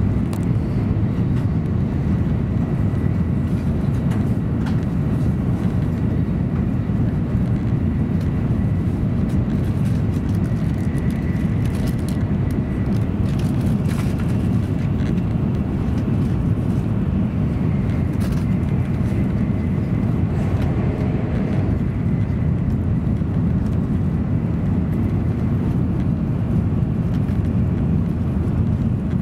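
Steady low rumble of an N700 Series Shinkansen train running, heard from inside the passenger cabin, with a faint high whine at times and a few light clicks.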